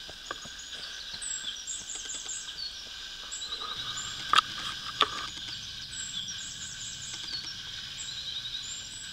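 Woodland birds singing, with repeated short, high chirps and trills, over a steady background hiss. Two sharp clicks about four and five seconds in are the loudest sounds.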